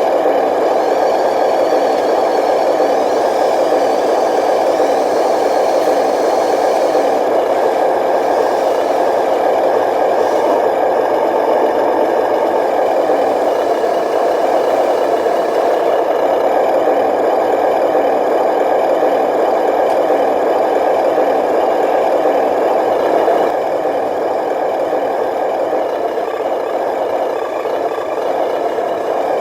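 Radio-controlled model dump truck running, a steady mechanical whir and rattle from its motor and gearing, with a faint rising whine in the first few seconds and a slight drop in level about two-thirds of the way through.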